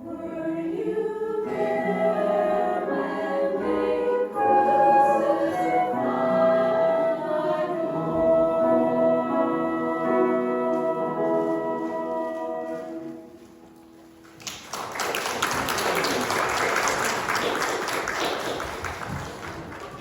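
Singing with accompaniment holds its final chords and dies away about two-thirds of the way in. A congregation then claps steadily to the end.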